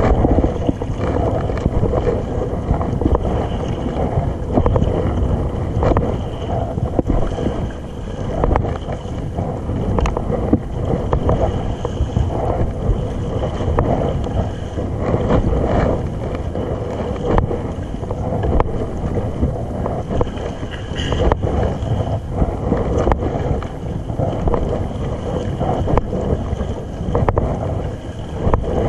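Kayak on the open sea: wind buffeting the microphone over water lapping and splashing against the hull, in uneven surges.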